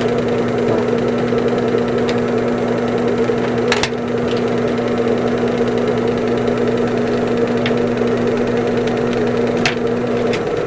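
Electric sewing machine motor humming steadily, with a few sharp clicks; the hum's upper tone drops out just before the end.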